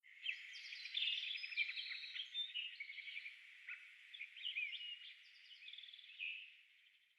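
Birds chirping, many short overlapping calls and quick trills, cutting in suddenly and fading out about seven seconds later.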